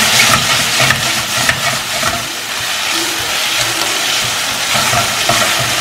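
Sliced onion and capsicum sizzling in hot oil in a pan as ginger-garlic paste is stirred in, with a few light taps of the spoon.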